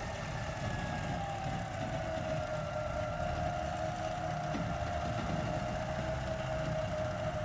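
Truck engine running steadily, with a rumble and a steady whine that sags slightly in pitch.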